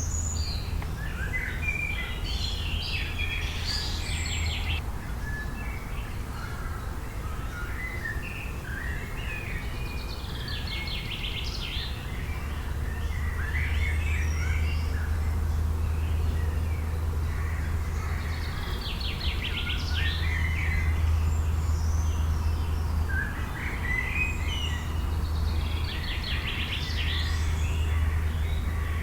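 Several songbirds chirping and singing, with one rapid trilled song phrase coming back about every seven to eight seconds. A steady low rumble runs underneath.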